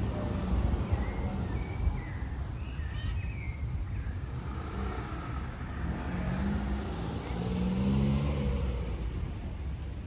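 Street traffic: a car passes, its engine growing louder to a peak near the end, over a steady low rumble of traffic.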